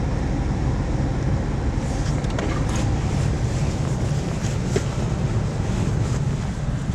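Vehicle engine idling with a steady low hum, with a few light ticks and scrapes over it.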